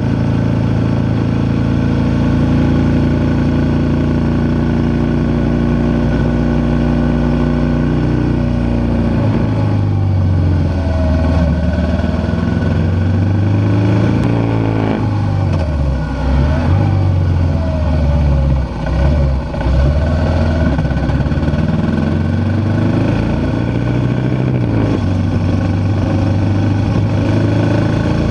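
BMW GS motorcycle engine running under way, with wind rush over the microphone. The engine note holds steady, falls about nine seconds in, rises and falls several times through the middle, then steadies again near the end.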